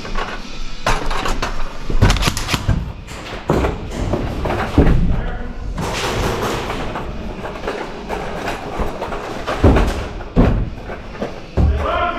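Irregular thuds and sharp knocks, a dozen or so, the loudest about two, five, ten and near twelve seconds in, over a busy background with faint music.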